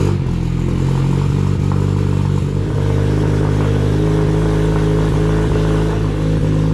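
Turbocharged Ford 2.3 EcoBoost four-cylinder in a Mazda Miata, just started and idling steadily through its custom 3-inch stainless and aluminum exhaust with a Vibrant Ultra Quiet resonator.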